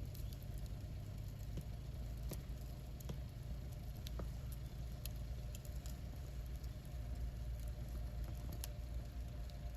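Wood campfire burning, with scattered sharp crackles and pops of the wood over a low steady rumble.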